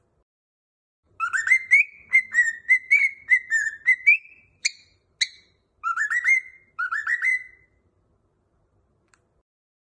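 A cockatiel whistling a song: a run of quick rising whistled notes lasting about three seconds, two short high chirps, then two shorter whistled phrases.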